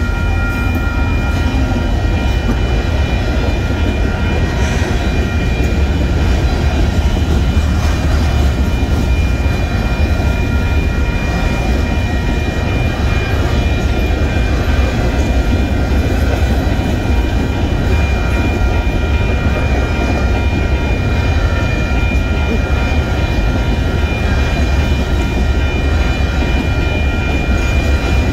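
Union Pacific freight train passing close by: a trailing diesel locomotive goes by first, then covered hopper cars rolling over the rails with a steady heavy rumble. A grade-crossing bell rings steadily over it.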